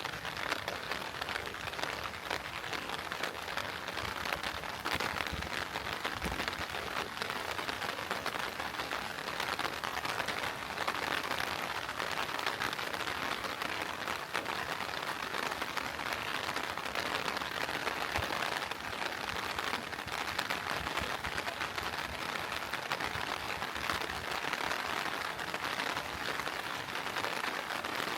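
Heavy rain falling steadily, a dense, even patter of drops without let-up.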